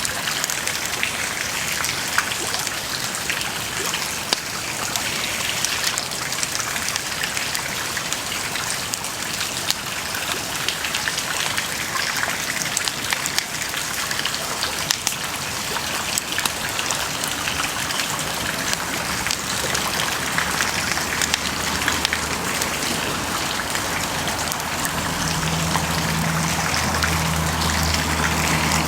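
Wood bonfire burning, a steady crackle of many small pops over a hissing rush. A low steady hum comes in a little past halfway and grows stronger near the end.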